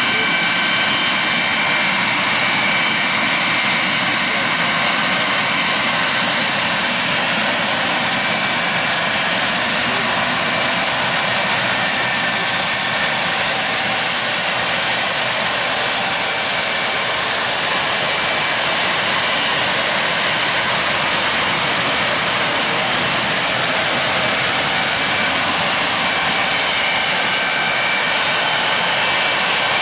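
Combines and tractors with grain carts running through a corn field at harvest: a steady, loud, dense mechanical din of engines and harvesting machinery, with faint steady whines over it.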